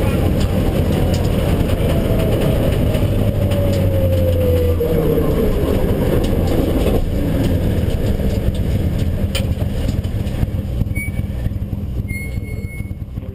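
Mitsubishi Lancer Evolution IX rally car's turbocharged four-cylinder engine running hard, heard from inside the stripped cabin along with road noise. A falling whine comes a couple of seconds in, and the sound fades out near the end.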